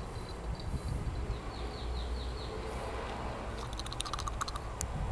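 Small birds chirping: a run of short, falling chirps, then a quick rattle of sharp clicks about four seconds in, over a steady low outdoor rumble.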